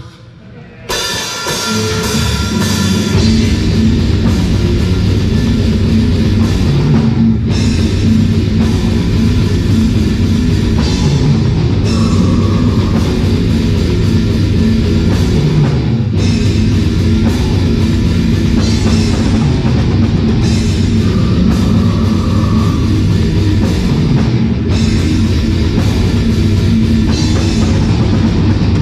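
Death metal band playing live: electric guitar, bass and drum kit crashing in about a second in and playing continuously at full volume.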